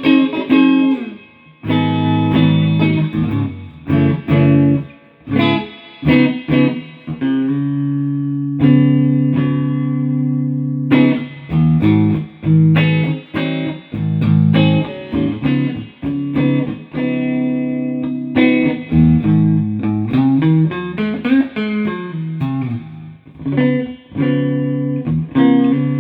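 Electric guitar played through an amplifier, a freshly refinished instrument being tried out. It plays plucked chords and single-note phrases with short pauses between them, and a few notes slide or bend in pitch a little past the middle.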